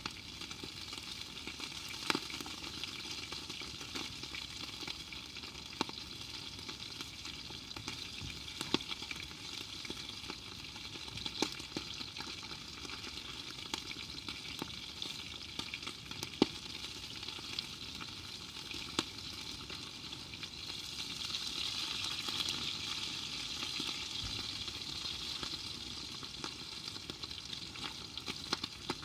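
Food frying and sizzling in a pan, with scattered sharp pops; the sizzle swells louder for a few seconds about three-quarters of the way through.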